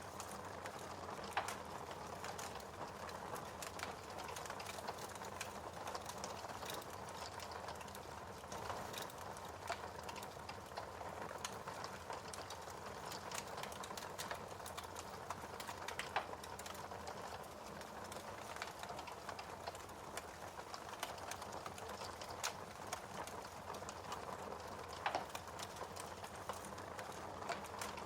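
Wood fire crackling: a steady soft hiss with irregular sharp pops and snaps every few seconds.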